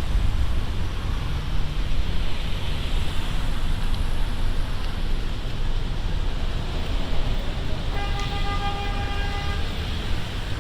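Steady low rumble of wind and road noise as the bicycle rides along, with a horn sounding once for under two seconds near the end.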